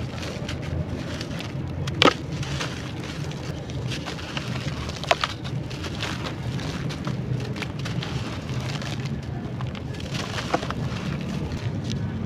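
Crunchy charcoal-coloured ASMR clay being crumbled and crushed: a dense, continuous crackle with a few sharper snaps, about two seconds in, about five seconds in and near the end.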